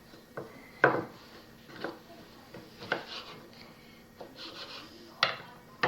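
Knife cutting cucumber on a chopping board: about six sharp knocks of the blade on the board, roughly a second apart, with light scraping between them.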